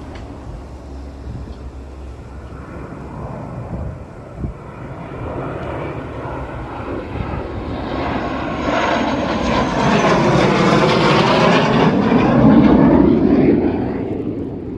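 An airplane passing overhead: its engine noise builds steadily, peaks near the end, then begins to fade.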